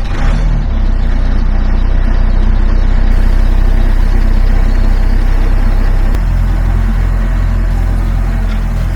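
Bobcat S175 skid-steer loader's diesel engine running steadily and loud, with a low, even drone; it comes in sharply at the start and eases off slightly about six seconds in.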